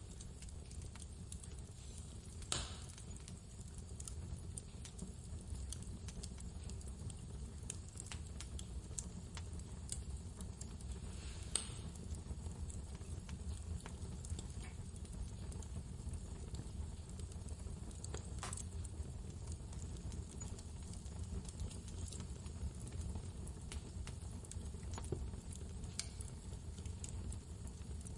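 Wood fire crackling with scattered sharp pops, three of them louder, over a steady deep rumble of blizzard wind.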